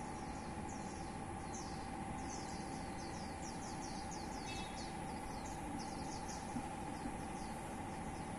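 A bird giving a rapid run of short, high, falling chirps, about three a second, thickest in the middle of the stretch, over a steady hum.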